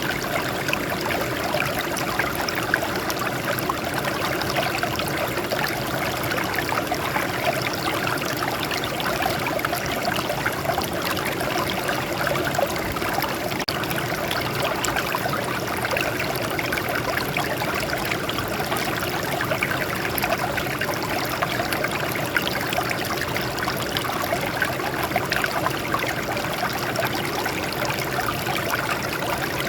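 Water flowing and trickling over rocks in a steady, unbroken babble.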